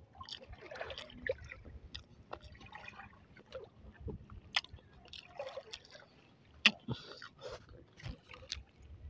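Close-up wet chewing and mouth clicks from eating crispy breaded balut, a run of small, irregular smacks and crackles.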